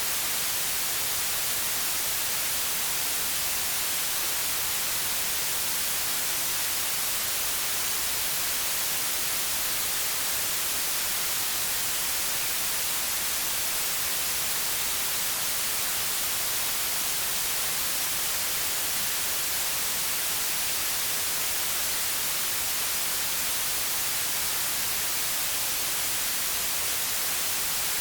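Continuous white noise: a steady, even hiss, brightest in the treble, with no change in level.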